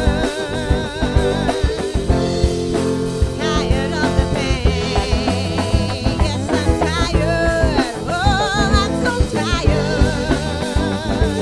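Funk band recording: drum kit, bass guitar, electric guitar and Hammond organ playing a steady groove, with a wavering vibrato melody line on top.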